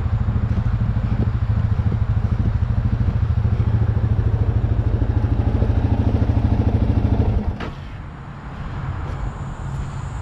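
An engine idling steadily with an even low throb, then shut off about seven and a half seconds in: it dies away with a brief knock, and quieter outdoor background remains.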